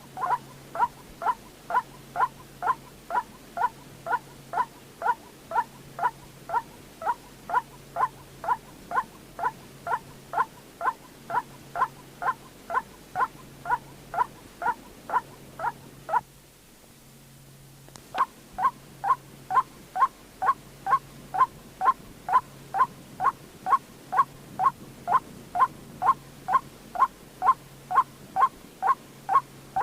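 White-breasted waterhen calling: one short note repeated evenly about twice a second. The calls break off for under two seconds a little past the middle, then carry on at the same rate. It is a played-back lure call for bird trapping.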